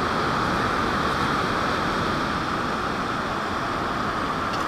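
Ocean surf washing on the beach as a steady, even hiss.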